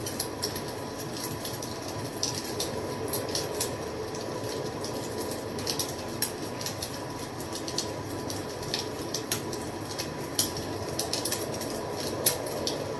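Wood fire crackling: irregular sharp pops and snaps, a few louder than the rest, over a steady rushing of the flames.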